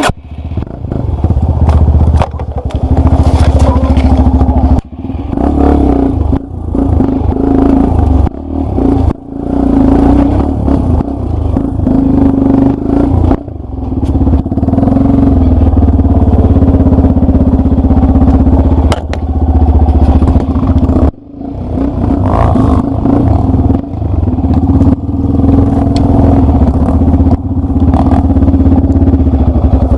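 Enduro dirt bike engine being ridden hard on a rough trail, the throttle repeatedly opened and snapped shut, the engine note rising and dropping with each blip, over clatter from the bike.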